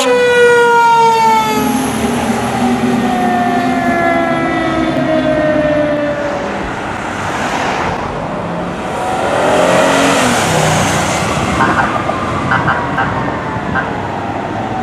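Fire apparatus siren, its pitch falling steadily over the first several seconds as it winds down or pulls away, followed by heavy engine and road noise from passing traffic that swells about ten seconds in.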